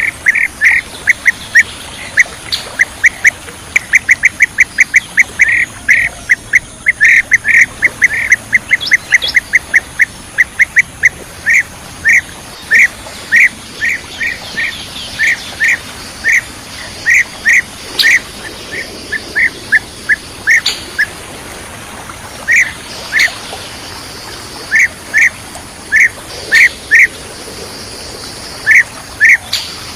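Bee-eater (kirik-kirik) calling: short, sharp chirps repeated over and over, in quick runs during the first half and then more spaced out. This is a call recording used as a lure for trapping.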